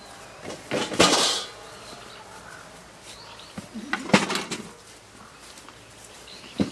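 Clattering of objects being handled, in two bursts about three seconds apart, with a single knock near the end.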